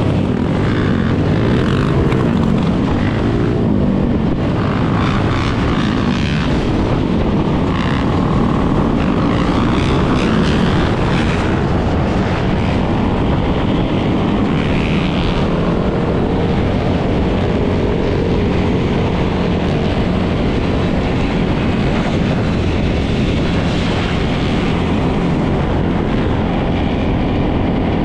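Many dirt bike and ATV engines running together in a dense, steady drone, with revs rising and falling in the first few seconds.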